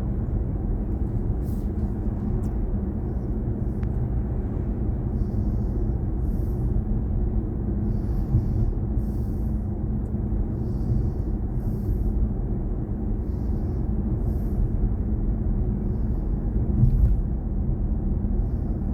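Steady low road and tyre rumble inside the cabin of a moving BMW i4 M50, an electric car with no engine sound, swelling briefly near the end.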